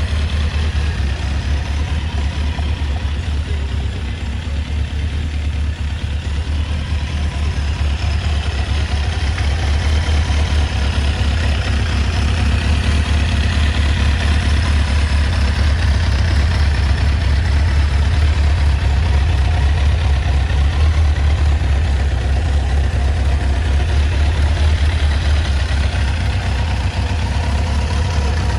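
1985 Kawasaki GPZ900R Ninja's liquid-cooled inline-four engine idling steadily, with a fast, even exhaust pulse.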